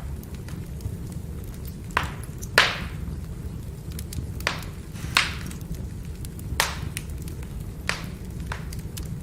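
Firewood burning: a steady low rumble with sharp crackles and pops, about seven clear ones, the loudest about two and a half seconds in, among smaller ticks.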